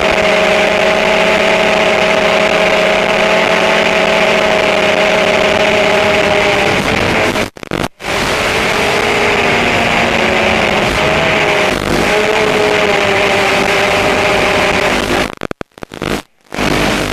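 Small multirotor drone's motors and propellers whining steadily at close range, with two steady tones over a loud rushing hiss. The pitch wavers slightly as the rotor speeds change in the second half. The sound breaks off briefly about halfway through and again near the end.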